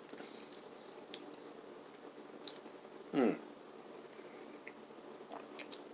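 Faint mouth sounds of tasting an aloe vera drink: a few small wet clicks of sipping and swallowing, spread through, with a short spoken word about three seconds in.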